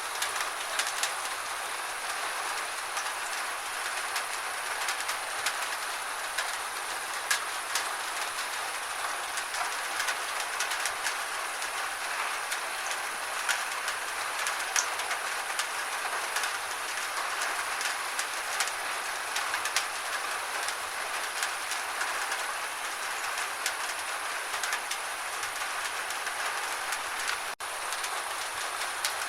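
Steady gentle rain, an even hiss with many small sharp drop ticks. It cuts out for an instant near the end.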